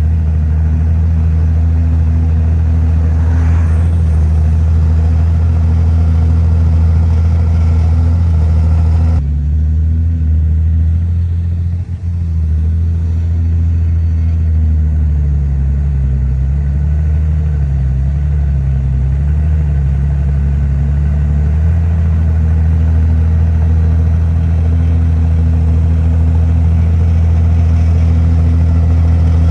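Heavy diesel engine of earthmoving machinery running steadily, its pitch sagging and recovering for several seconds in the middle as it works under load. The higher-pitched noise above it drops off abruptly about nine seconds in.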